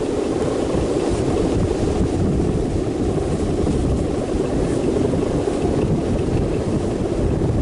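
Strong wind blowing, a steady loud rumbling rush buffeting the microphone.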